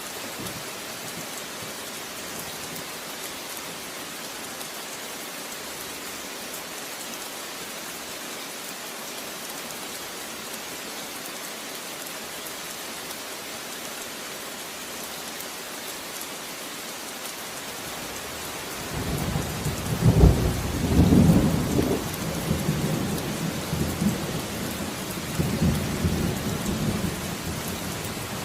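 Steady rain falling, and about two-thirds of the way in a long roll of thunder starts, loudest at first and rumbling on to the end.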